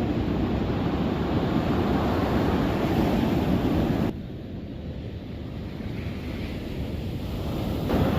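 Ocean surf on the shore with wind buffeting the microphone. The noise drops suddenly about halfway through, then slowly builds back.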